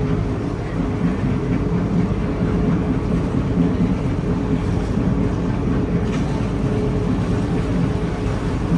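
A train running past with a steady low rumble and a faint steady hum over it.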